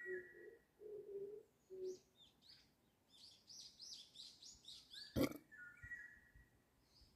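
Spring birdsong: a dove cooing in low repeated notes for the first two seconds, then a small songbird's fast run of high twittering chirps, with a few clearer whistled notes at the start and again near the end. A single sharp click about five seconds in.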